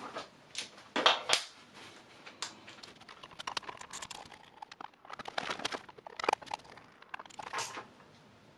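Handling noises: irregular small knocks, clicks and rustling, with the sharpest knocks about a second in and again around six seconds in.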